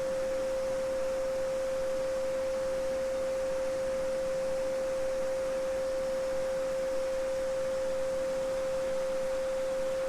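Steady 528 Hz pure sine tone, a Solfeggio frequency, held unchanged over the soft, even babble of a small stream.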